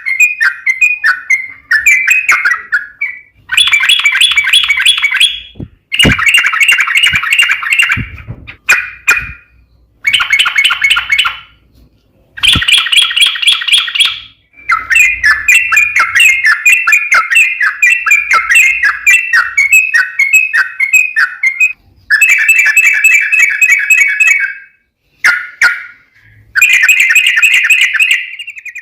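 Yellow-vented bulbul (trucuk) singing loudly in long, rapid chattering phrases of bubbly notes, one phrase after another with short breaks, one run lasting several seconds.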